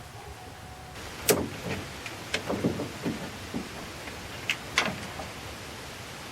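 Hand tools and loose bolts clinking and knocking against metal, about ten sharp irregular clicks starting about a second in, as water pump bolts are worked out of the engine.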